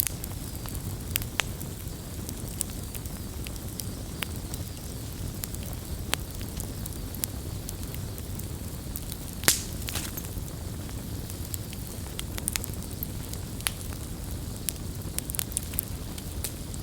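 Wood campfire burning, with a low steady rumble of flames and irregular sharp crackles and pops, one louder pop about nine and a half seconds in.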